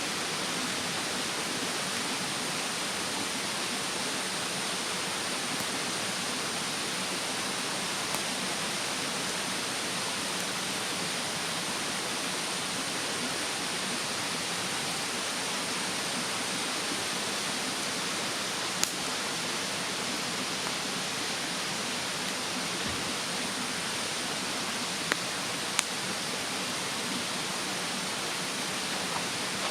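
Steady rushing of a mountain stream, with a few sharp pops from a wood fire burning in a fire stand, the loudest about two-thirds of the way through.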